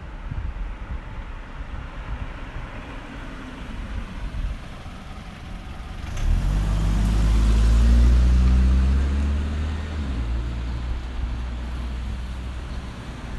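A car passing close by on the street: its engine sound swells about six seconds in, peaks, then fades, over a low rumble of traffic.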